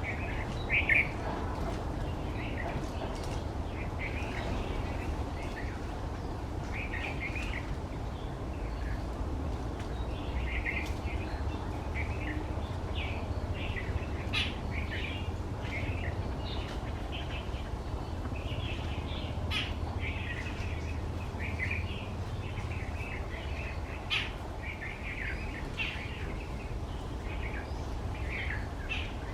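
Wild birds chirping, many short calls repeated throughout, with a few sharp taps scattered among them over a steady low background rumble.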